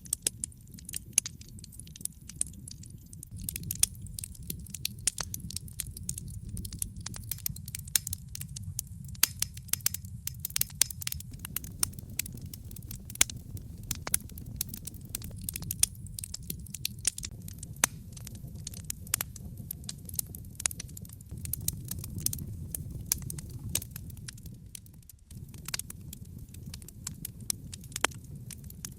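Logs burning in a fireplace, with constant irregular crackles and sharp pops over a steady low rumble of the flames.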